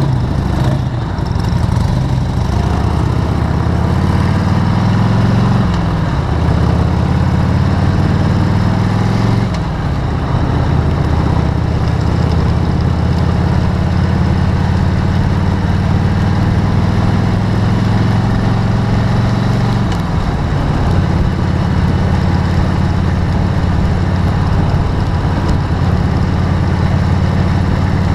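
Vehicle engine running steadily under way, its pitch dipping and settling again three times, as at gear changes. Under it is a steady hiss of hard rain and wet road.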